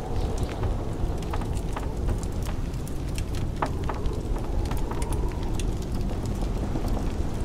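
Fireplace crackling with scattered sharp pops over a steady low rush of blizzard wind.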